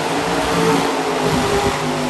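Monster truck engine running hard at high revs, holding a steady pitch.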